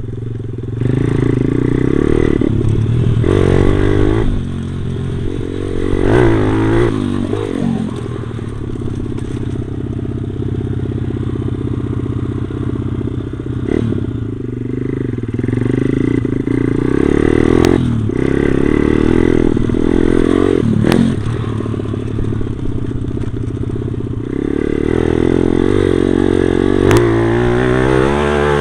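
Stomp pit bike's small single-cylinder four-stroke engine being ridden, its pitch rising and falling again and again with the throttle and gear changes. A few sharp clicks or knocks come through in the second half.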